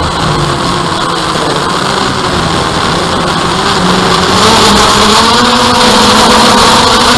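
DJI Phantom quadcopter's motors and propellers whining steadily, with a few held tones; the pitch rises and the sound gets louder about four and a half seconds in as the drone throttles up.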